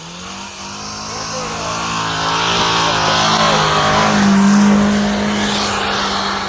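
Honda CR-V driven hard through deep snow, its engine held at high revs while the car ploughs past, growing louder to a peak about four seconds in and then fading, with the hiss of tyres and snow.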